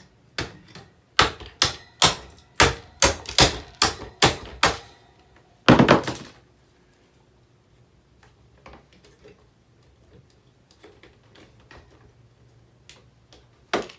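About ten hard blows strike a table fan in quick succession, two or three a second. They are followed by a longer crunching crack about six seconds in, then faint taps and one more sharp knock near the end.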